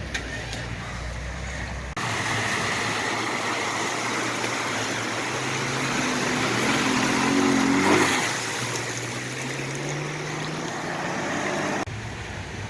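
An off-road vehicle's engine revving, its pitch climbing to a peak and then easing, over a steady rushing noise like water, as the vehicle drives through a river crossing.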